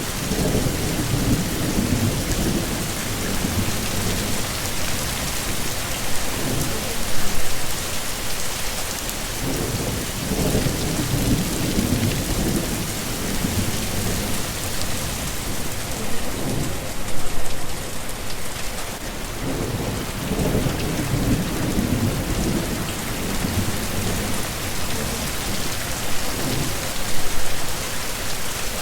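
Steady heavy rain pouring, with low thunder rumbling in rolling swells and a few louder peaks.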